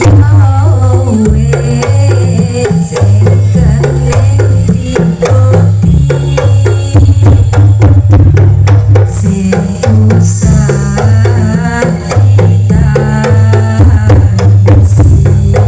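Jaranan ensemble music played live: rapid hand-drum strokes over heavy bass notes that change every second or so, with a wavering melody on top.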